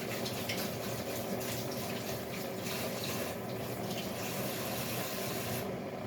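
Kitchen faucet running into the sink as hands are washed under the stream; the water shuts off near the end.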